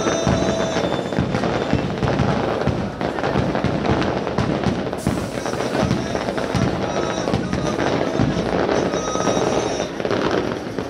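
Fireworks display at its climax: a dense, continuous barrage of bursts and crackling reports. A few brief high steady tones ring through it near the start and again about nine seconds in.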